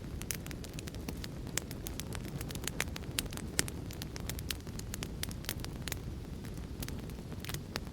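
Wood fire crackling: irregular sharp snaps and pops, several a second, over a steady low rumble of the flames, with a louder pop about three and a half seconds in.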